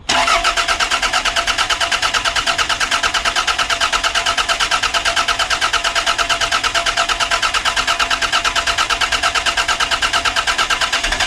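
Toyota Celica SS-II's replacement four-cylinder engine being cranked over by the starter motor without catching, an even chugging of about ten pulses a second that starts suddenly and keeps going.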